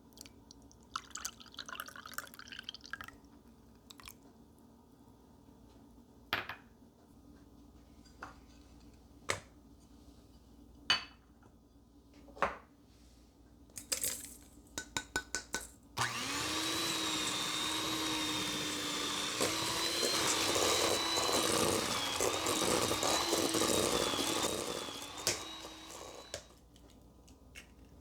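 Scattered clinks and knocks of kitchen utensils and bowls, then an electric mixer switches on abruptly a little past halfway and runs steadily with a constant hum for about ten seconds before winding down.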